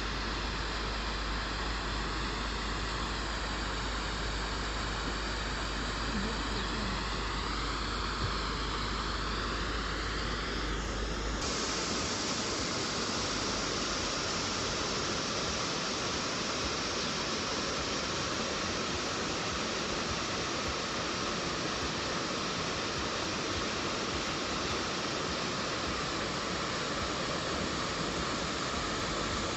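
Rushing water of a waterfall in spate, a steady even roar. About eleven seconds in, the tone changes abruptly and a low rumble drops out.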